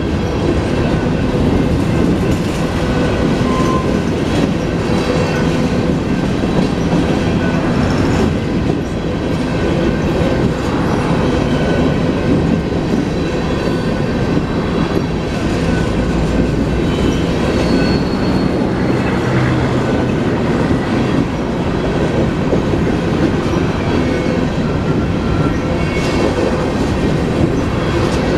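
Union Pacific freight train's hopper cars rolling past, wheels clacking over the rail joints with a steady low rumble. A few brief, thin wheel squeals ring out.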